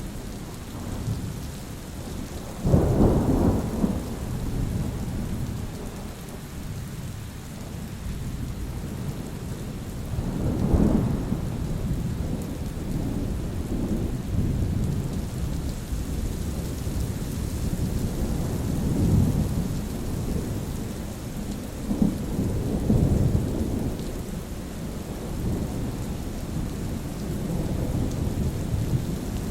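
Steady rain falling, with thunder rumbling several times over it; the loudest clap comes about three seconds in.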